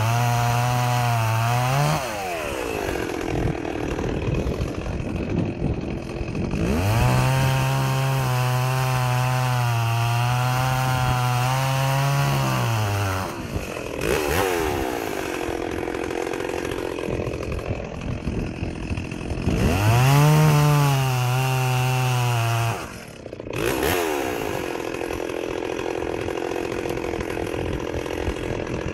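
Stihl 038 Magnum two-stroke chainsaw cutting wood. Three times the engine pulls down to a lower, steady pitch under load in the cut for a few seconds, then revs back up between cuts. The sound drops off briefly near the end before the saw runs on at high revs.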